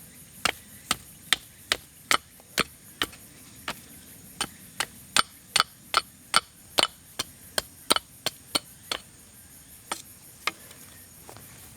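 A blade chopping with a run of about twenty sharp, even strokes, two or three a second, thinning to a few separate strokes near the end. A steady high insect chorus runs underneath.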